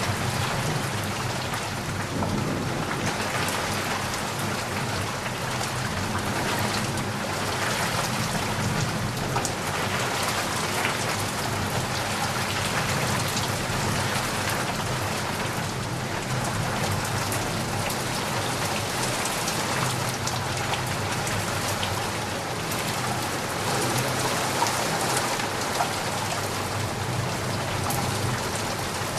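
Heavy rain falling steadily in a dense, even hiss of drops. A low rumble swells and fades beneath it several times.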